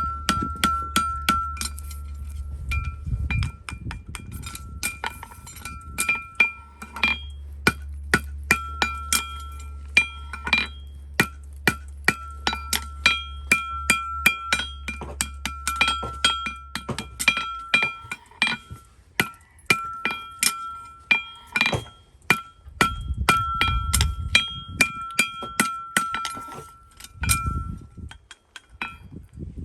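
A farrier's hammer striking steel again and again, a few blows a second with short pauses, each blow leaving a clear metallic ring. A low hum sits underneath for the first half.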